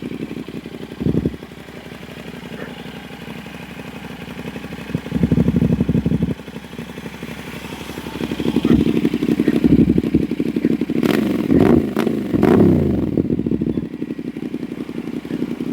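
CFMoto 450SR parallel-twin engine idling through an Austin Racing full exhaust with catalytic dB killer, blipped several times: a short rev about a second in, a longer one around five seconds, and a run of quick revs from about eight to thirteen seconds, pitch rising and falling, before it drops back to idle.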